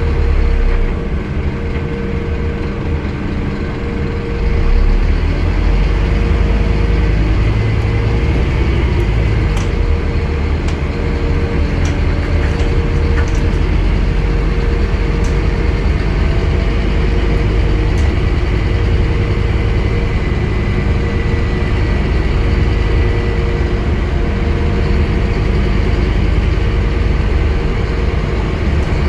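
Scania N230UD double-decker bus's engine and drivetrain running on the move, a steady low drone that eases for a few seconds near the start and picks up again about four seconds in. A few faint clicks and rattles sound over it.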